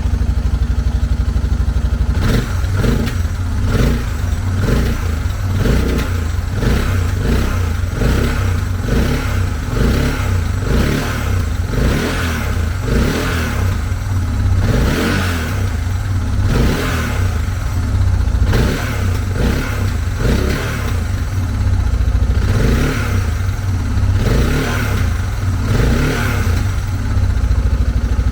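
Suzuki DR650's single-cylinder four-stroke engine running and being revved up and down over and over, about once a second. With the clogged fuel petcock cleared, it now picks up much better without bogging.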